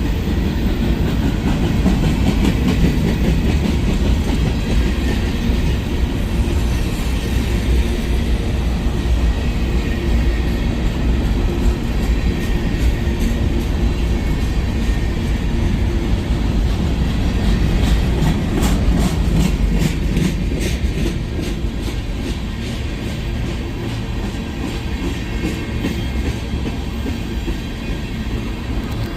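Freight train cars rolling past with a steady low rumble, the wheels clacking over rail joints in a quick run of clicks a little past the middle.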